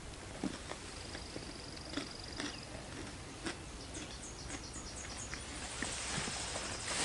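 Soft, scattered crinkles and clicks of a snack-bar wrapper being opened and handled. Short runs of high, rapid chirping come in the second half.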